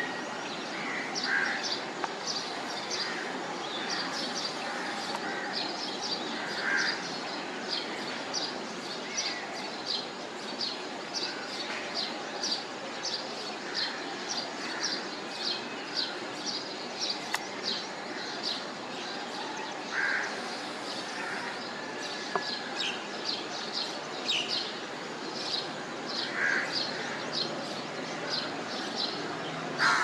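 Birds chirping: a steady run of short, high chirps, two or three a second, with a lower call every few seconds, over a steady background hiss.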